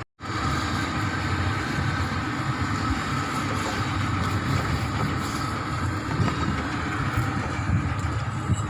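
An engine running steadily, a low rumble with a faint steady whine above it.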